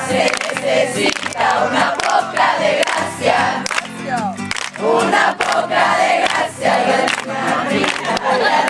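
A group of people singing loudly together, many voices overlapping like a crowd.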